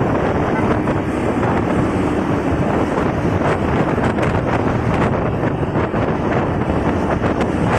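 Wind buffeting the microphone on a moving motorcycle, with the motorcycle's engine and traffic noise underneath, dense and steady with short crackles.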